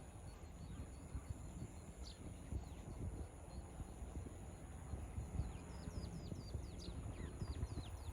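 A bird singing a rapid series of short, high, downward-slurred whistled notes in the second half, with a single similar note about two seconds in, over an irregular low rumble of wind buffeting the microphone.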